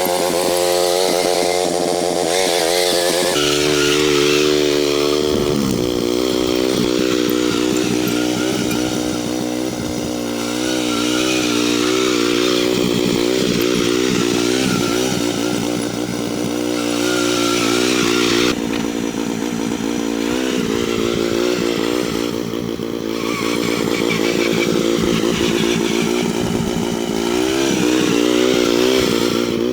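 MTD lawn tractor's small engine running steadily, its pitch wavering up and down as the load changes.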